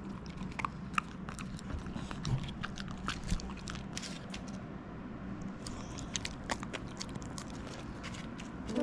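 A Jindo dog chewing and crunching its food, with irregular sharp crunches and clicks of its teeth.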